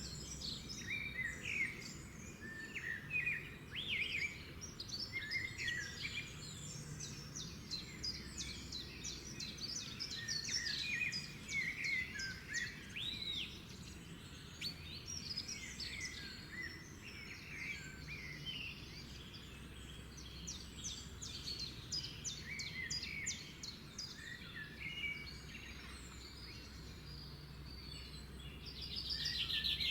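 Several birds singing and calling at once: overlapping chirps, short whistles and rapid trills, with the trills busiest around a third and two thirds of the way in and again at the end. A low steady background rumble runs beneath them.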